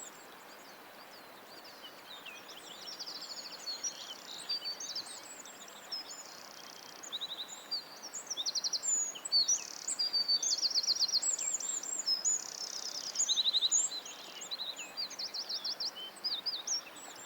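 Birds singing: many high chirps, gliding whistles and fast trills, thickening about halfway through, over a steady hiss.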